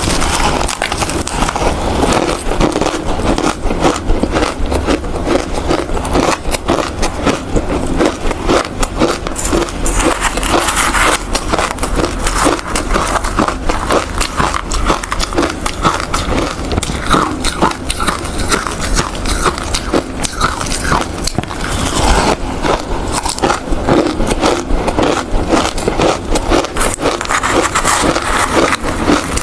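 Ice being bitten and chewed close to the microphone: a continuous run of crisp cracks and crunches.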